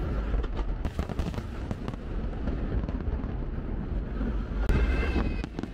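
Fireworks display: a dense, continuous barrage of deep booming bursts thick with sharp crackles.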